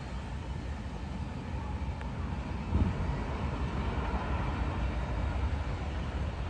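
Norfolk Southern manifest freight train rolling by with a steady low rumble, and a single knock about three seconds in.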